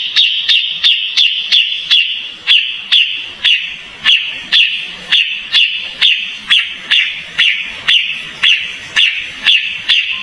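Kapas tembak calling in a fast, even series of short, sharp chips, about two and a half a second, each dropping slightly in pitch, over a steady high hiss.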